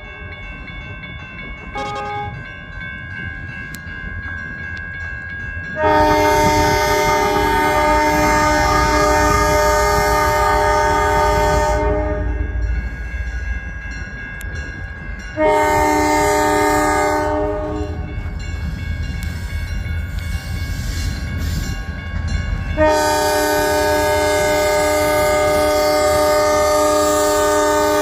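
Great Lakes Central diesel locomotive approaching and sounding its air horn, a steady multi-note chord: faint at first, then three long loud blasts, about six, fifteen and twenty-three seconds in, the last still sounding at the end, over the low rumble of the train.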